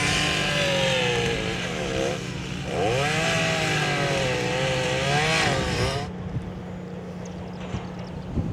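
A chainsaw running and cutting: its pitch dips under load and climbs back twice, then the saw stops abruptly about six seconds in. A steady low engine hum runs underneath.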